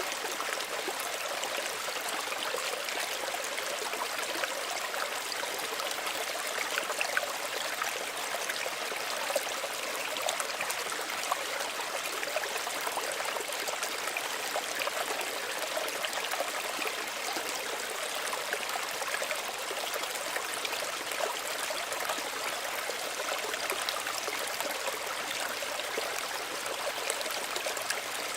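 Small stream running steadily over stones, a continuous gentle rush of water with fine trickling and splashing.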